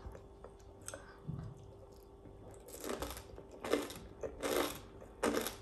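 Someone chewing a crisp air-fried rice bite, with a few separate crunches starting about three seconds in.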